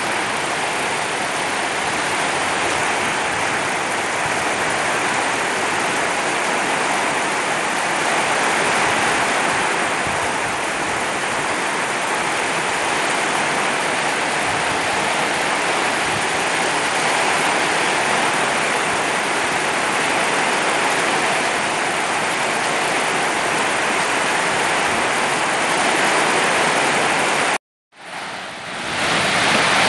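Heavy downpour: a loud, steady rushing hiss of rain, broken by a sudden short gap of silence near the end.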